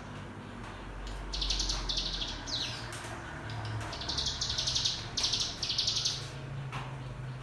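Ciblek gunung (a prinia) singing rapid, buzzy rattling trills, the 'ngebren' song, in about four bursts with a short falling note between the first two.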